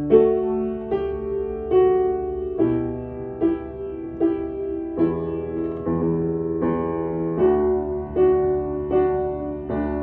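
A slow, gentle melody played on piano, with a new note or chord struck about every 0.8 seconds and ringing on between strikes.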